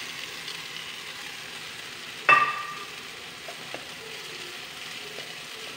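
Onion-tomato masala sizzling steadily in a frying pan, with one sharp ringing metal clink a little over two seconds in.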